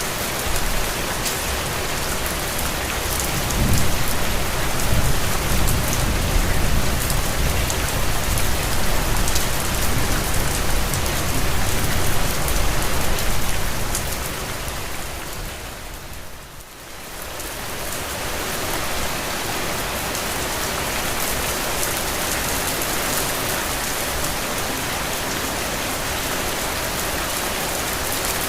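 Steady rain falling on the ground and foliage, an even hiss of many drops. A low rumble swells under it for the first half. About two-thirds of the way through, the whole sound fades down briefly, then comes back.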